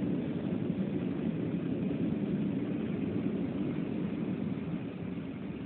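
Steady cabin noise of an Airbus A320 on its landing approach: a low, even rumble of engines and airflow, getting slightly quieter toward the end.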